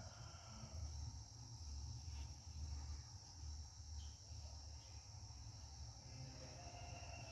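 Faint, steady high-pitched insect chorus, typical of crickets, with a low, uneven hum underneath.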